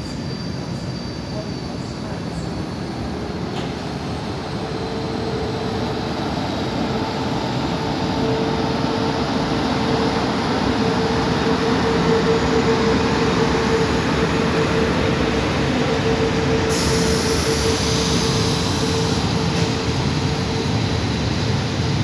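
Freight train hauled by an electric locomotive rolling slowly past, its covered wagons clattering and rumbling on the rails, getting louder as the wagons go by. A steady high tone joins in about a quarter of the way in and holds until near the end, and a short hiss comes about three-quarters of the way in.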